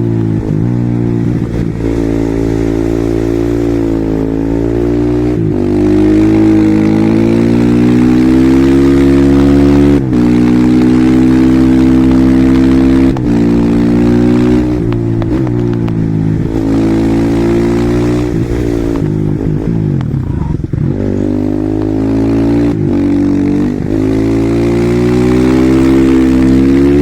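Husqvarna SMR 450 supermoto's single-cylinder four-stroke engine under hard acceleration, its pitch climbing through the gears and dropping briefly at each upshift. About two-thirds of the way through, the revs fall and waver as the rider slows and downshifts, then it pulls hard again.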